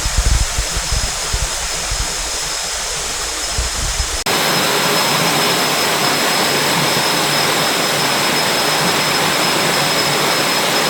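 Steady rainforest ambience: an even hiss with a thin, steady high whine through it. About four seconds in it cuts abruptly to a louder, fuller hiss.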